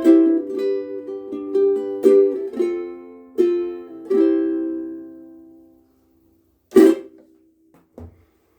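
KoAloha ukulele played: a run of plucked notes and chords, the last chord ringing out and dying away about two-thirds of the way in. After a short silence comes a sharp knock, then a couple of fainter knocks near the end.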